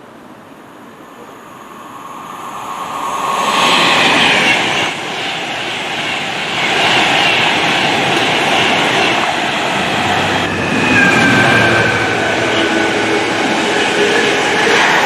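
A train approaching and passing, growing loud over the first few seconds, then a sustained rush of wheels on rail with some high metallic squeal.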